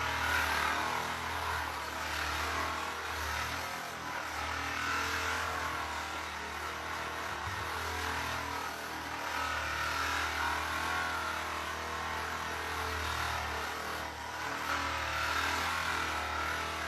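Handheld electric massage gun running against the back: a steady motor buzz that swells and eases every second or two as it is pressed in and moved.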